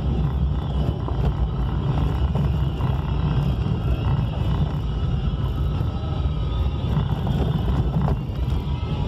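A vehicle driving on a rough, potholed dirt road: a steady low rumble of engine and tyres.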